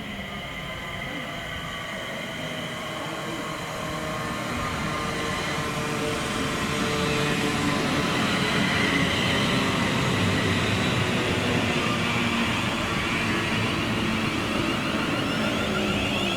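A train running through the station, its sound building over several seconds to a peak in the middle and falling away near the end.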